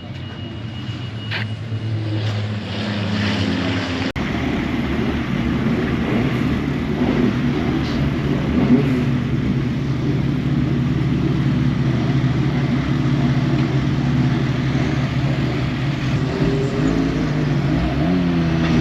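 Racing pickup truck engines running, with a sudden break about 4 s in after which the engine sound becomes louder and denser; near the end the pitch rises as engines rev up.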